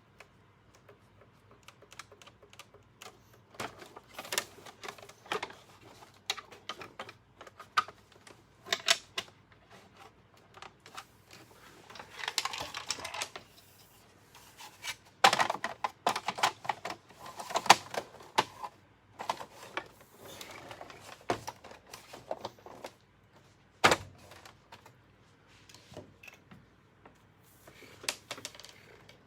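Hands working on a vacuum cleaner's plastic parts and cord: irregular clicks, taps and rattles with short rustling stretches, and one sharp knock near the end.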